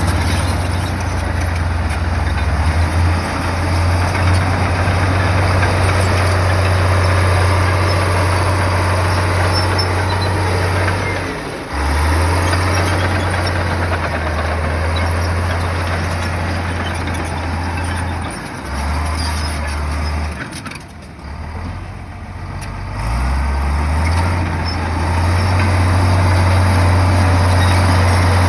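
Diesel engine of a heavy earthmoving machine running under load, a steady low drone with mechanical noise over it. The engine note drops away briefly about twelve seconds in, and again for a couple of seconds a little past two-thirds of the way through, before coming back up.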